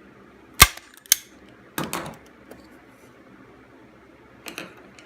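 Staple gun firing a staple into the wooden beehive frame to fix the fishing line: two sharp, loud snaps about half a second apart, followed by softer handling clatter.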